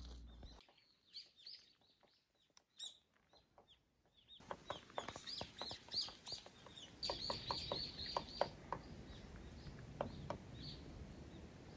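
Small birds chirping in a winter forest: many short, high, falling notes, sparse at first and then in quick runs, busiest about seven to eight and a half seconds in, with scattered short sharp clicks among them.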